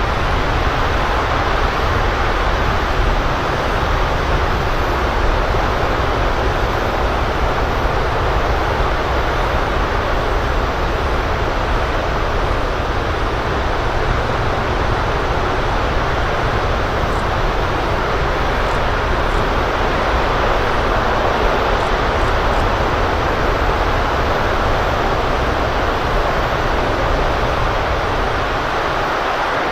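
LE-9 liquid-hydrogen/liquid-oxygen rocket engine firing on its test stand: a loud, steady, continuous rumble that begins to fade at the very end.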